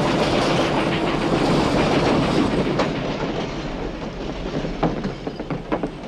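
Train passing and moving away, its rumble fading, with wheels clacking sharply over the rail joints in the later seconds.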